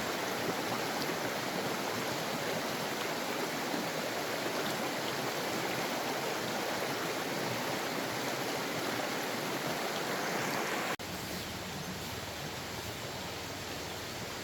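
Steady rush of running water. About eleven seconds in it cuts off abruptly to a quieter, similar steady hiss.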